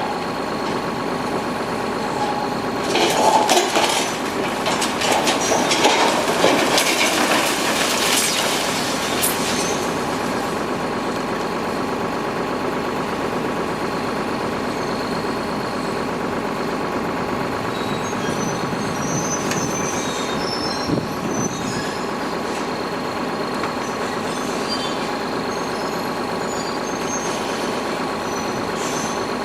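Hitachi ZX350 excavator's diesel engine running under load. Over the first ten seconds concrete and debris crash and crunch down in a string of impacts. After that the engine runs steadily, with a few high squeaks now and then.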